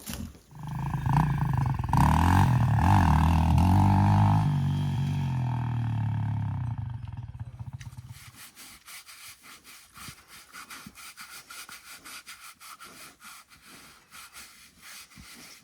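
A cow lowing: one long, loud, low call that fades out about eight seconds in, followed by faint, evenly repeating clicks.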